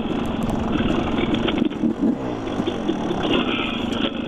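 Dirt bike engine running steadily on a trail ride, its pitch dropping briefly about halfway through.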